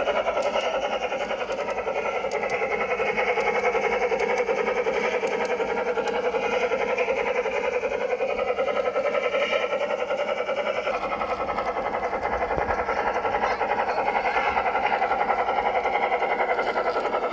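G-scale garden-railway model train running on its track: a steady electric motor and gear hum with fast wheel rattle.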